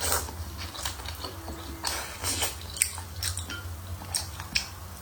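Close-miked eating: bites and wet, crunchy chewing of hotpot food in short, irregular clicks.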